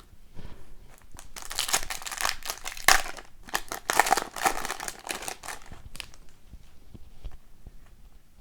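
A hockey card pack's wrapper being crinkled and torn open by hand, a dense crackling that thins out after about six seconds into fainter scattered crackles.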